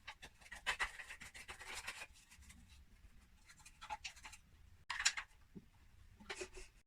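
Intermittent scratchy rubbing on plastic: a run of short strokes at first, then a few separate brief scrapes, as humidifier parts and the small cleaning brush are handled.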